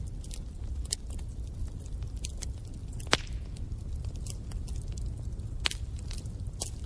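Wood fire burning in a fireplace: a steady low rumble of flames with scattered sharp crackles and pops, the loudest about three seconds in and again near six seconds.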